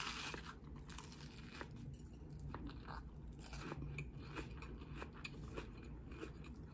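Biting into a panko-breadcrumb-crusted corn dog with a crunch right at the start, then chewing with scattered crisp crunches.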